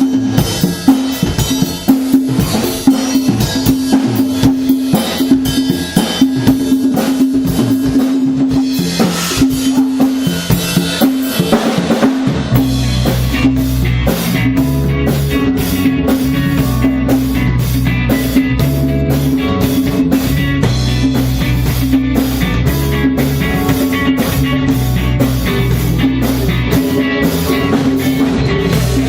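Live band playing at a sound check: drum kit with a repeating note over it, then about twelve seconds in the low end fills out and the full band plays a steady rock beat.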